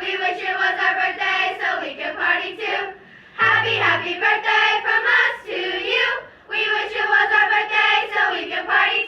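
A group of children singing a birthday song together in phrases, with a short break about three seconds in.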